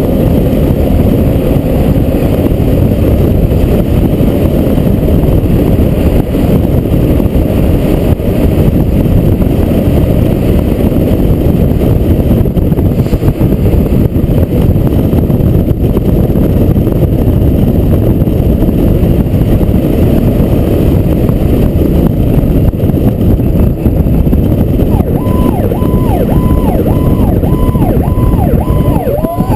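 Loud, steady engine and road noise of a fire truck under way. About 25 seconds in, a siren starts a rapid pulsing tone, about two pulses a second, and near the end a second siren tone begins to wind upward.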